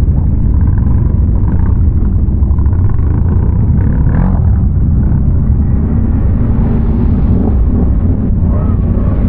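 ATV engine running steadily under way, a continuous low rumble with no let-up.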